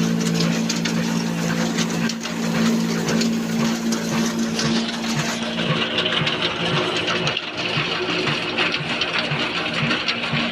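Old black desi single-cylinder diesel engine running steadily while driving an aata chakki flour mill, a low hum with a regular beat about twice a second. About halfway through, a higher hissing, grinding sound comes in over it.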